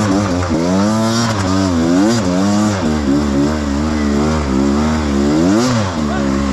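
Enduro motorcycle engine revving up and down in repeated throttle blips. The blips are quicker and smaller in the middle, with a big rise in revs near the end.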